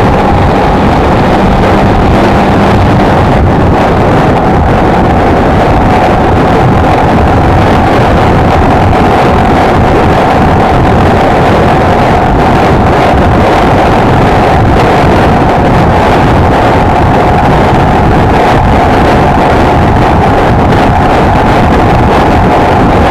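Honda XLR125R's single-cylinder engine running at a steady cruising pace, its note dipping slightly mid-way and coming back, under heavy wind noise on the microphone.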